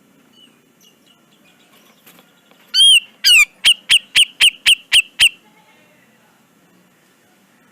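Grey-cheeked bulbul (cucak jenggot) calling: a loud, rapid series of about nine sharp down-slurred notes, the first two longer, the rest about four a second, starting about three seconds in. Faint bird chirps run underneath.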